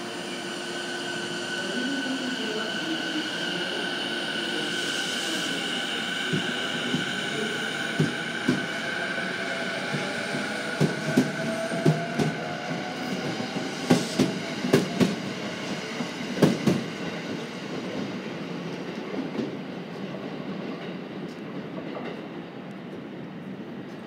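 E217-series electric train pulling out: a steady electrical whine and a motor tone that rises in pitch as it gathers speed. From about a third of the way in, the wheels clack over the rail joints in quick clusters, and the sound then fades as the train draws away.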